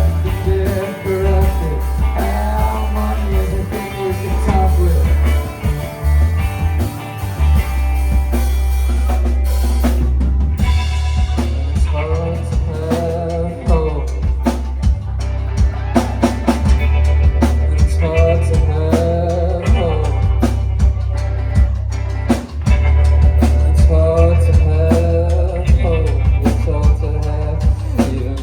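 Live rock band playing an instrumental passage: drum kit with snare and bass drum hits over a heavy amplified bass, and a melodic lead line weaving above.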